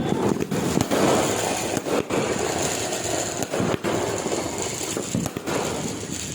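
Medium-calibre 42-shot consumer fireworks cake firing: sharp bangs at irregular intervals over a steady crackling hiss.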